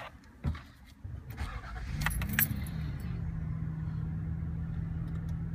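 Keys jangling and clicking in the ignition as a 1988 Acura Legend's V6 is started; the engine catches about two seconds in and settles into a steady idle.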